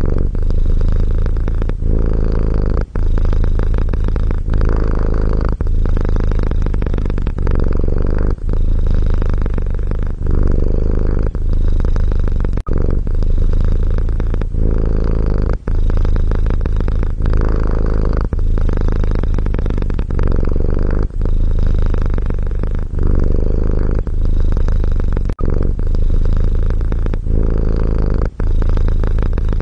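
A domestic cat purring steadily and loudly, close to the microphone. The purr breaks briefly about every second and a half.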